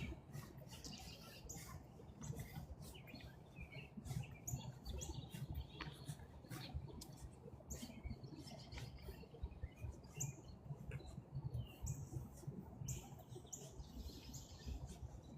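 Small birds chirping, over irregular crackling rustles of dry fallen leaves and a low rumble.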